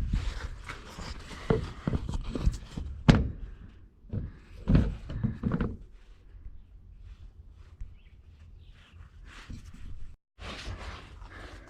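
Thunks and knocks of an engine being handled and set onto an air compressor's mounting plate, a cluster of them in the first half with the loudest about three seconds in, then quieter shuffling and light knocks.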